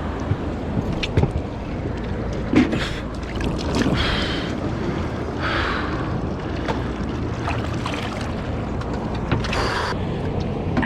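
Steady low rumble of wind and water around a small fishing boat, with a few short knocks and rustling noises of handling on board.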